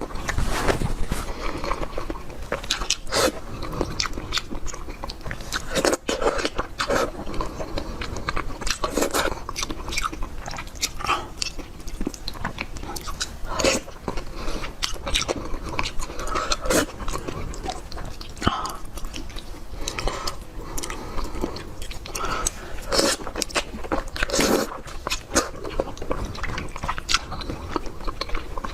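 A person eating: irregular bites and chewing, with some crunching.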